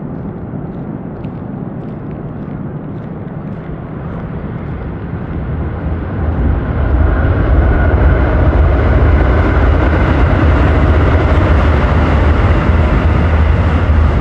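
Train crossing a railway bridge: a rumble that builds up from about five seconds in and then stays loud and steady, with deep bass under a hiss.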